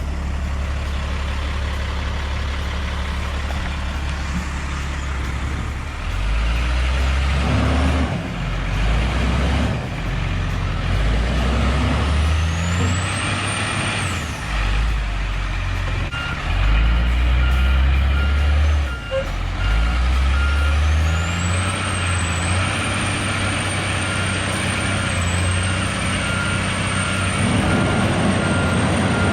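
Heavy diesel engine working under load, its low note repeatedly rising and falling. A high whine climbs twice. From about halfway in, a backup alarm beeps steadily.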